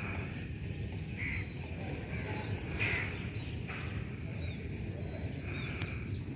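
Outdoor birds calling: short, clear calls about a second in, near three seconds and near the end, with small high chirps between them, over a steady low background rumble.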